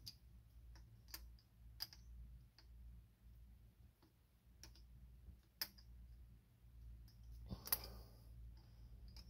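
Scattered light clicks and taps of hand tools and metal parts while a new fuel pump is being fitted and tightened down, over a faint steady hum. A louder click with a brief rustle comes about three-quarters of the way through.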